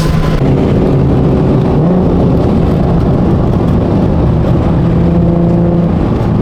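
Car engine running steadily, with a short rise in pitch about two seconds in, over a constant rumble of road or exhaust noise.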